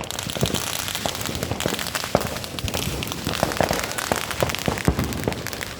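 A lit firework hissing with a dense, irregular crackle of small pops throughout.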